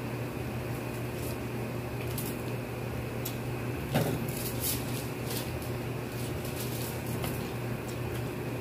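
People chewing and lip-smacking as they eat rice and chicken by hand, with many small wet clicks, over a steady low hum. A single louder knock sounds about four seconds in.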